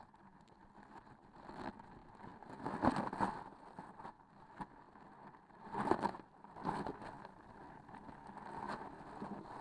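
Close-up handling of transparent sticky objects: irregular tacky presses and peels, the loudest about three and six seconds in.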